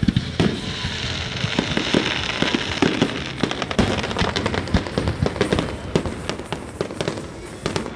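Fireworks display: a dense run of bangs and crackles, with a hissing crackle in the first half.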